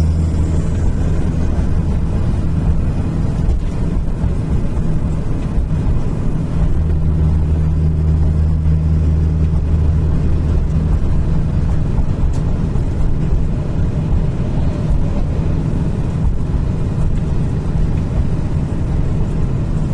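Scania V8 diesel truck engine running steadily, a deep low drone whose low note grows stronger for a few seconds in the middle.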